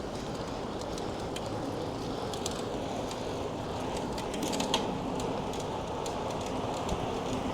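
Riding noise from a moving bicycle: a steady rumble of tyres and wind with scattered light clicks and ticks, and one sharper click a little under five seconds in.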